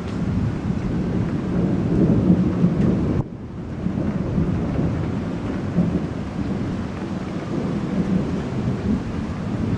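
Thunder rumbling long and low over the hiss of rain, swelling to its loudest about two to three seconds in. The sound drops out abruptly at about three seconds, then the rumble carries on.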